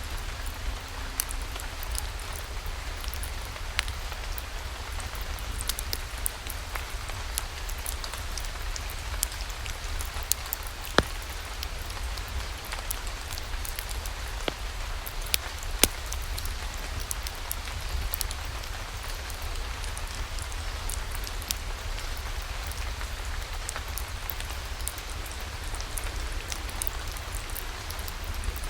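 Steady rainfall, an even hiss, with many scattered sharp clicks and pops throughout, a few of them louder, such as one about eleven seconds in and one near sixteen seconds.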